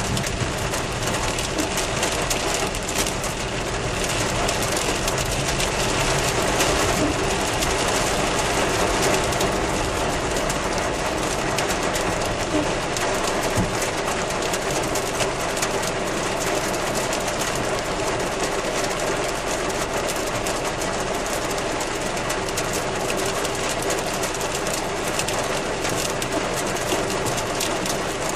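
Heavy thunderstorm rain pelting a moving car in a dense, steady patter.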